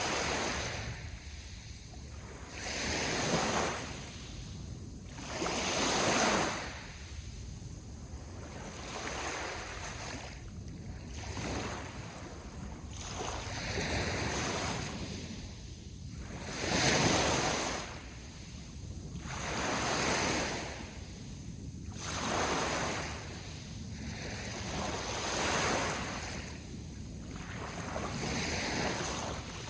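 Sea waves washing onto the shore, coming in as repeated surges of surf about every two to three seconds over a steady low rush. The biggest wave breaks about seventeen seconds in.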